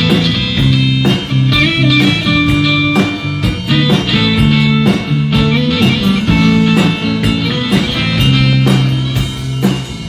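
Live band playing an instrumental passage between sung verses: guitar over bass and a drum kit keeping a steady beat.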